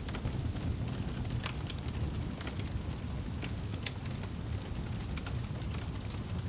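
Wood fire burning with a steady low rumble and scattered sharp crackles and pops of the logs.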